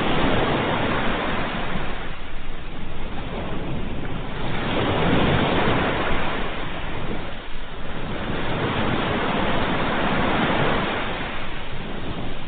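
Ocean surf: waves rushing in a continuous hiss that swells and ebbs, with about three surges a few seconds apart.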